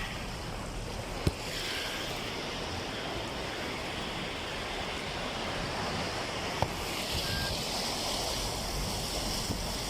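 A steady rush of water as a car drives through deep floodwater in heavy rain, with two short knocks about a second in and again past the middle.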